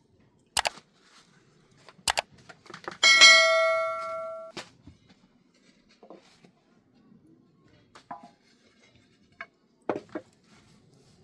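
Metal cookware being handled: a few sharp knocks, then one loud strike about three seconds in that rings out for over a second before dying away, followed by lighter clinks and knocks near the end.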